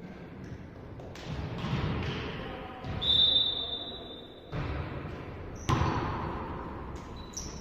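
A volleyball being struck several times with sharp smacks, and one long referee's whistle blast about three seconds in.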